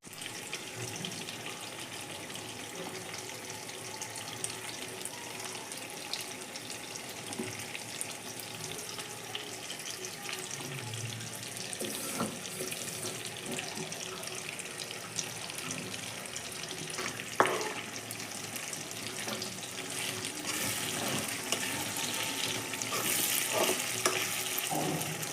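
Prawns and onions frying in a pan with a steady sizzle, which grows a little louder near the end, and an occasional sharp click of a utensil, loudest about 17 seconds in.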